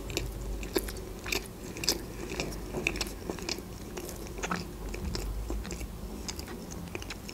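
A person chewing a soft chocolate-filled Barni sponge cake with the mouth closed: moist mouth clicks and smacks about twice a second.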